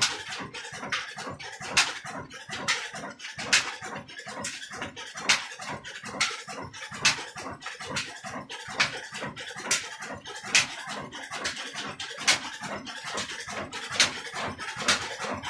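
Old Ruston Hornsby diesel engine running steadily at slow speed while driving a flour mill (chakki), with a regular beat of about three to four thuds a second. A sharper click comes back about every second and three quarters.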